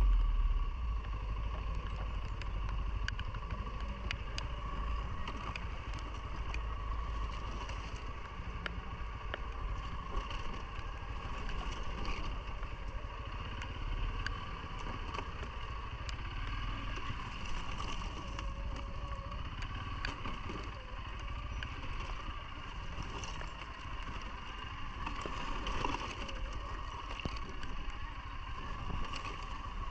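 CFMOTO ATV engine running steadily under way, with a constant whine over a low rumble and scattered light clicks and knocks.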